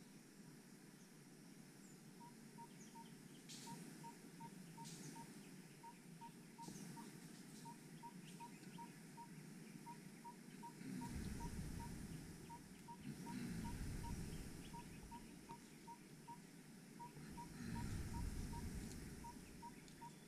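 Faint forest ambience with a bird repeating a short piping note on one pitch, in runs of three to five. Low rumbles come and go from about halfway through.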